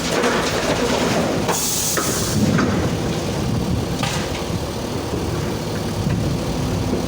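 Excavator's diesel engine running under load while digging and loading soil, with bursts of scraping and a few sharp clanks from the bucket and falling dirt.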